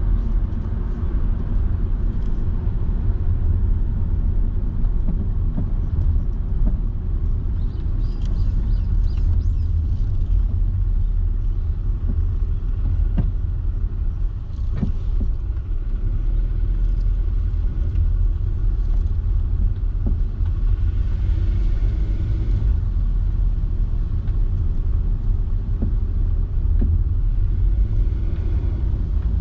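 Car driving along a road: a steady low rumble of engine and tyre noise, with a few short knocks.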